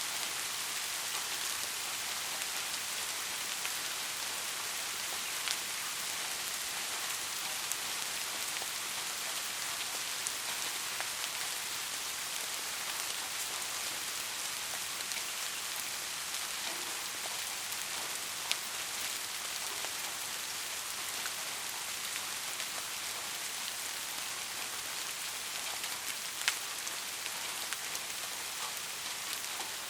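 Steady rain: an even hiss of falling drops, sprinkled with sharp drop ticks, a few of them louder. No thunder in this stretch.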